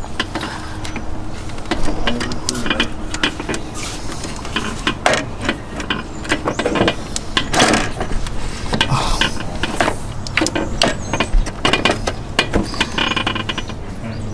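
Irregular metallic clinks and knocks as a harmonic balancer and its bolts are worked into place by hand on a car engine, with a louder ringing clank about halfway through.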